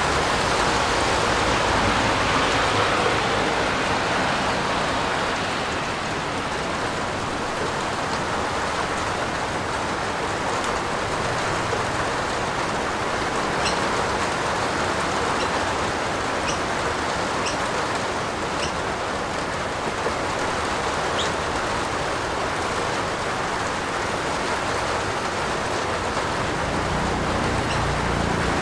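Steady heavy rain falling on a roof, an even hiss with a few faint sharp ticks of single drops scattered through the middle.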